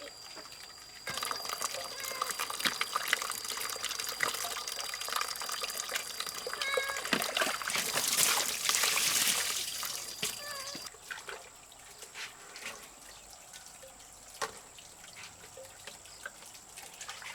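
Water trickling and splashing. It starts about a second in, is loudest near the middle and dies away a few seconds before the end, leaving a few small clicks.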